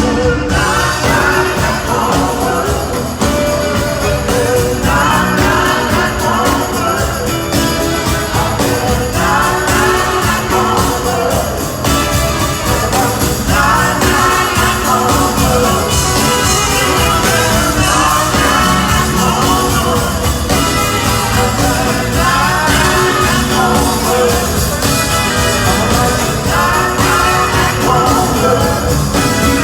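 Live band music with singing: a lead vocal sung in phrases a few seconds long over guitar and a full band, loud and steady throughout.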